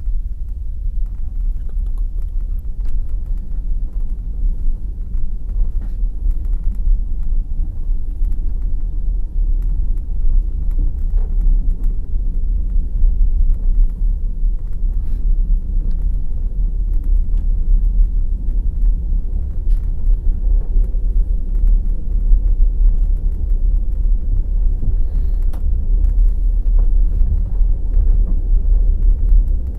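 Passenger train wheels clattering over the rails, with a steady heavy low rumble and scattered sharp knocks of wheels crossing rail joints.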